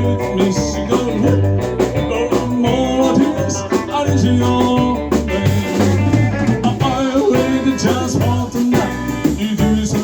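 Live band playing an instrumental break of an up-tempo song: guitar over bass guitar and a drum kit keeping a steady beat.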